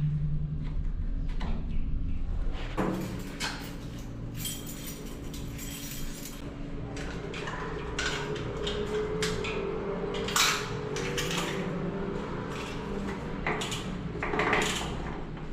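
Foldable bike lock being unlocked and handled: its metal links click and clink irregularly over a steady background hum.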